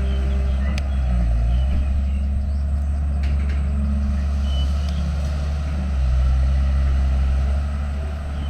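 Heavy earthmoving machine's diesel engine running under working load. Its low hum rises and falls in pitch and gets louder about six seconds in.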